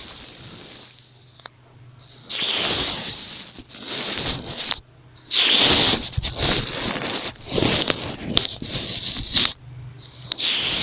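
Makeup brush bristles rubbed and swept across a microphone up close. Several long, scratchy swishes are separated by brief pauses, with small clicks among them.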